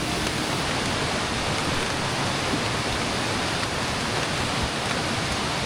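Steady, even hiss of water noise with no breaks, of the kind made by a rushing mountain creek or rain falling around a tarp camp.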